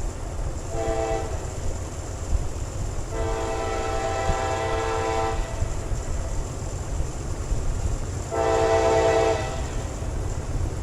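A CSX freight locomotive's air horn sounds three chord blasts: a short one, a long one of about two seconds, then a short one. A steady low rumble of the moving train runs underneath.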